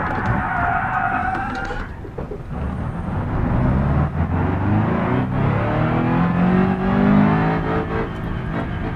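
Car engine being revved hard. A high whine sounds over the engine for the first two seconds, then the engine pitch climbs steadily for a few seconds and drops back down near the end.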